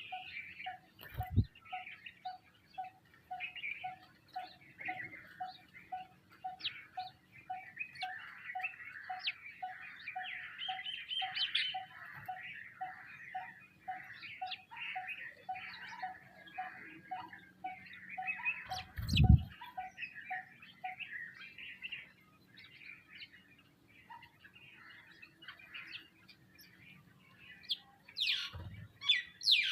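A flock of small birds, house sparrows and common mynas among them, chirping and twittering together. A steady pulsing note repeats about twice a second and stops about two-thirds through. A low thump comes about two-thirds in, with fainter ones near the start and near the end.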